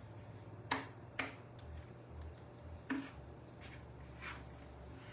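A few light clicks and taps of kitchen handling, two close together about a second in and another near three seconds, over a low steady hum.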